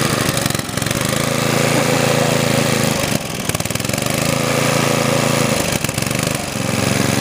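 Ariens lawn tractor's 8 hp single-cylinder Tecumseh engine running, its note dropping briefly about a second in, again near three seconds and around six seconds before picking back up.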